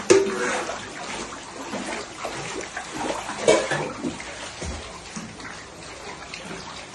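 Floodwater flowing and splashing steadily, with a short voice-like call right at the start and another about three and a half seconds in.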